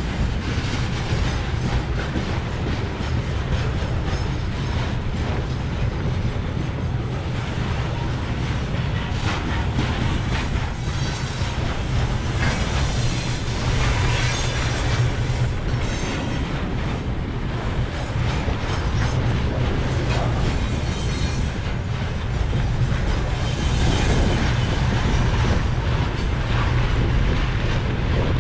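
Train running along the track: a continuous rumble of wheels and carriages on the rails.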